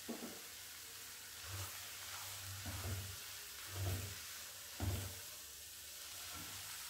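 Grated carrots sizzling faintly in a nonstick pan, the milk nearly cooked off, while a silicone spatula stirs them with soft scraping strokes, about five in the first five seconds, then a steadier sizzle near the end.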